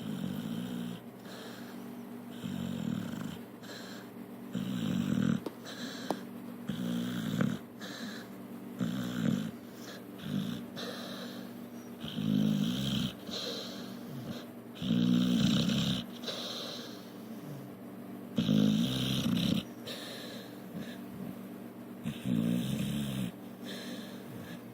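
Pit bull snoring in her sleep: a regular run of breathy, rattling snores, about one every two to three seconds, some louder than others.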